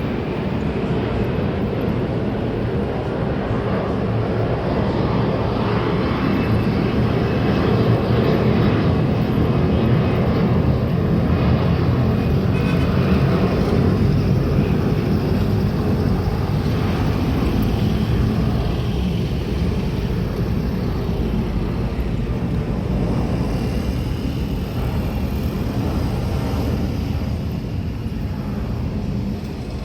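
Airbus A330-200 jet aircraft, its engines and airflow making a steady, loud rumble that builds a little over the first few seconds and then holds.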